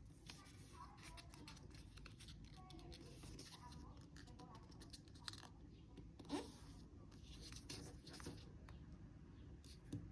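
Faint crinkling and short clicks of a sheet of origami paper being folded and creased by hand, over a low steady hum.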